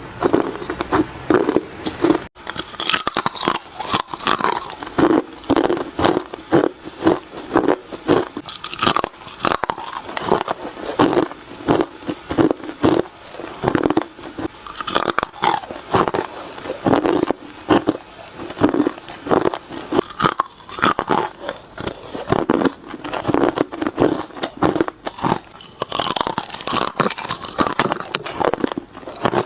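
Hard ice being bitten close to the microphone: a quick, irregular run of loud crunches, several a second, with no pause.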